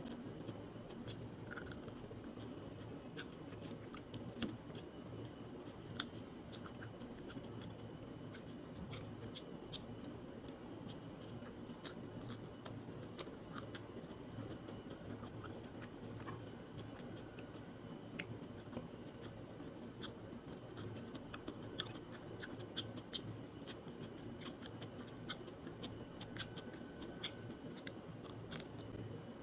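Close-miked chewing of raw vegetables eaten by hand, with many small crisp crunching clicks and mouth sounds.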